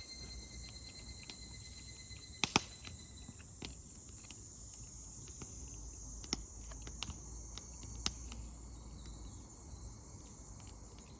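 Crickets trilling steadily in a high, continuous chorus, with a few sharp clicks scattered through it, the loudest a quick pair about two and a half seconds in.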